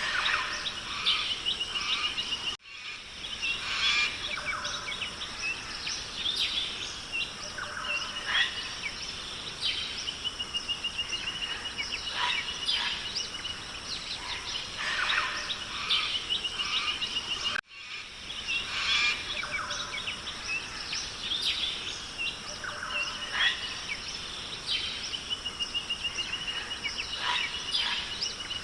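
Forest ambience of many birds chirping and calling, with a recurring high trill, over a steady high hiss. The recording cuts out for an instant twice, about fifteen seconds apart, and the same bird calls repeat after each cut: a looped track.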